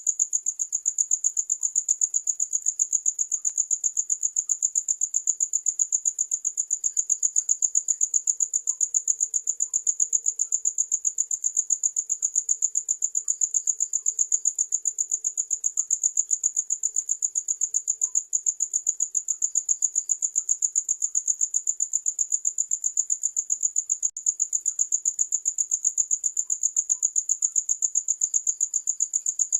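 Crickets chirping: a high-pitched, rapid and evenly pulsed trill that goes on without a break.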